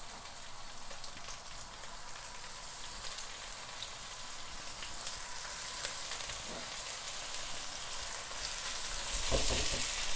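Langoustines frying in hot vegetable oil with sliced garlic in a wok: a steady sizzle with light crackles, briefly louder with a low bump near the end.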